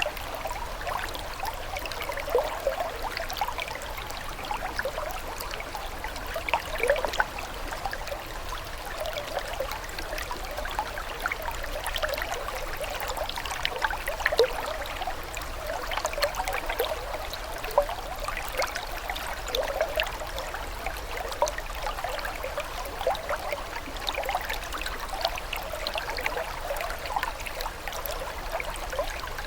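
Water trickling and babbling continuously, with many small splashes and bubbly blips over a steady wash.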